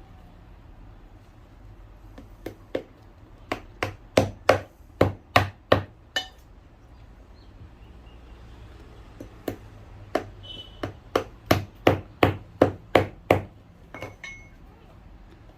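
Cobbler's hammer striking a shoe sole in two runs of sharp blows, about two or three a second, with a pause of a few seconds between them.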